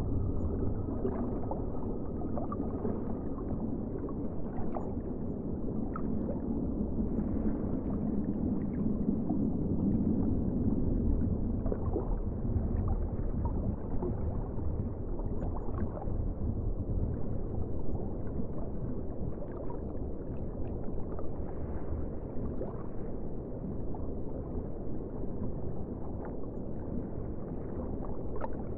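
Sea water sloshing and gurgling with a steady low rumble, dull-sounding and scattered with small splashes.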